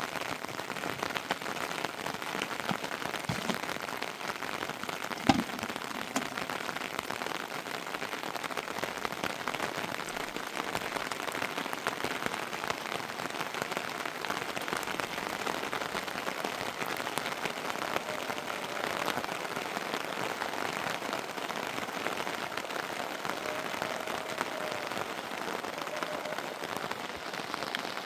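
Steady heavy rain falling, a dense hiss of many small drop impacts, with one sharper knock about five seconds in.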